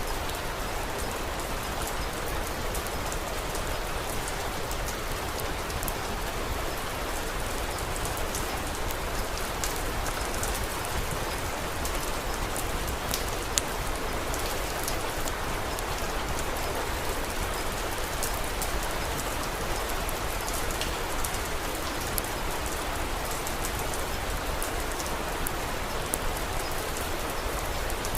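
Steady rain with many scattered sharp clicks, and one louder click about halfway through.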